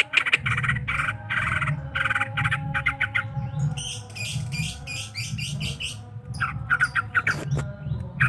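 Green leafbird (cucak ijo) singing a fast, harsh chattering song: rapid runs of repeated notes, switching to higher, quicker notes midway before the lower chatter returns near the end.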